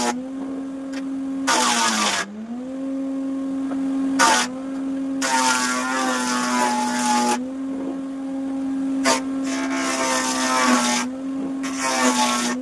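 Electric woodworking machine running at a steady whine, cutting into sal wood several times; with each cut the motor slows slightly under load and a loud rasping noise rises over it.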